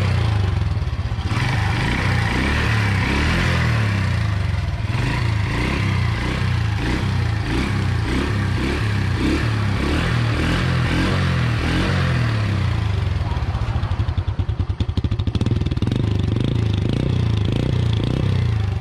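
Yamaha Sirius 50cc four-stroke single-cylinder engine idling steadily and quietly, a sign of an engine in good running order. For a couple of seconds near the end the pulsing of the exhaust comes through sharper.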